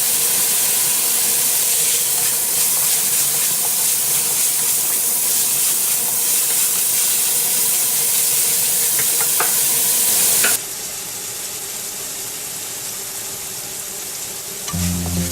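Pork frying in oil in a pan, a steady loud sizzle as it browns toward golden brown. About ten and a half seconds in the sizzle drops suddenly to a quieter level, and background music comes in near the end.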